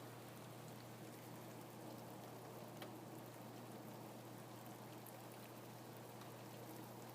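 Steady rain, quiet, with scattered individual drops ticking through an even patter over a low steady hum.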